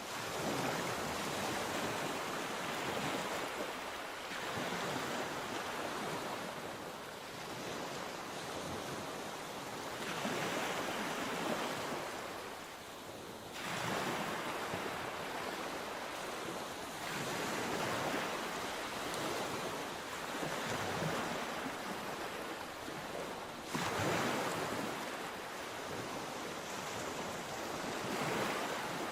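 Sea waves breaking on the shore, the surf swelling and ebbing in surges every few seconds, with sudden louder breaks about halfway through and again near the end.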